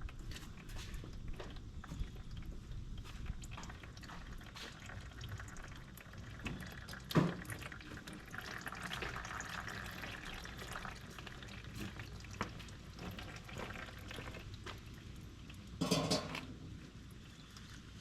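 Warm engine oil pouring out of a Honda CRF250F's drain-plug hole into a drain pan, with scattered clicks and two louder knocks, about seven and sixteen seconds in.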